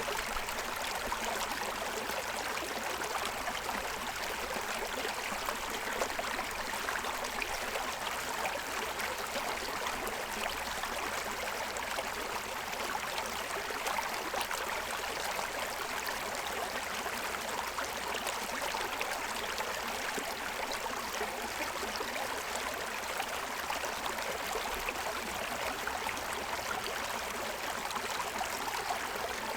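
Forest stream flowing steadily over the stones of its bed, a continuous babbling rush of water.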